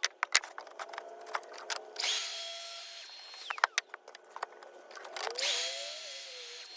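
A power tool's motor runs in two short bursts, each spinning up to a steady high whine and winding down. Sharp knocks and clicks of wood and tools being handled come between them.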